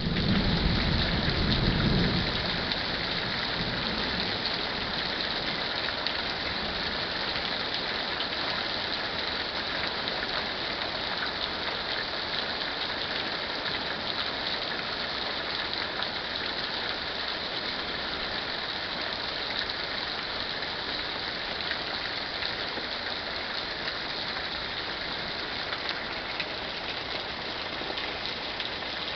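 Heavy thunderstorm rain falling steadily, an even dense hiss. A low rumble sits under it for the first couple of seconds and then fades.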